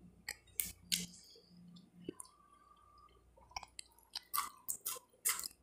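A person chewing food close to the microphone: scattered wet mouth clicks and lip smacks. There are a few in the first second, a lull around the middle, then a quicker run of smacks over the last two seconds.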